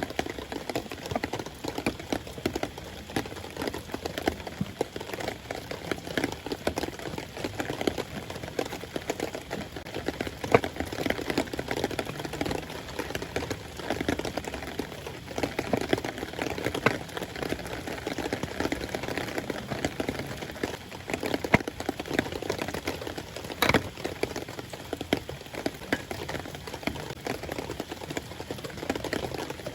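Steady rain, with many small drop impacts on a nearby surface.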